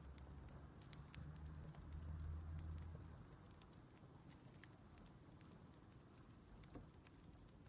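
Faint crackling of a wood fire: scattered small pops and snaps at irregular intervals over a soft low hiss, with a low rumble in the first three seconds.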